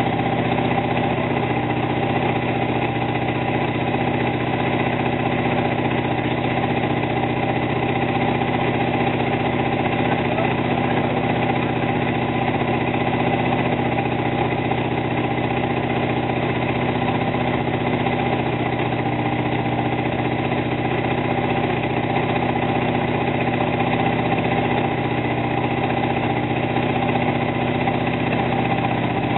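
Oldsmobile 350 (5.7 L) V8 with a freshly installed Comp Cams XE268 flat-tappet camshaft, running at a steady speed during camshaft break-in. The exhaust note holds even and unchanging.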